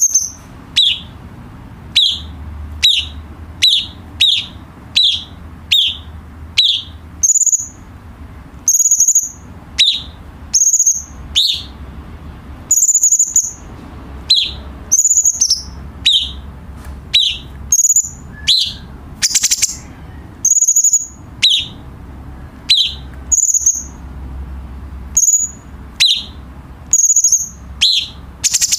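Cucak cungkok singing a repeated phrase of short, clear high whistled notes, about one a second, some with a quick falling note lower down, over a faint low hum.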